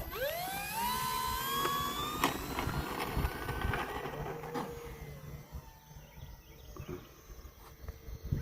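Electric motor and propeller of an FMS Cessna 182 RC model plane throttling up for takeoff: a whine that rises in pitch over the first two seconds, then holds and fades as the plane flies off.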